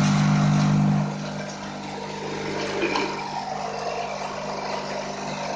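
Semi-automatic weigh filler for grains running while it weighs a new dose of pasta: a steady machine hum, loud for about the first second and then dropping to a lower, steady level, over a dry rattling hiss of pasta pieces.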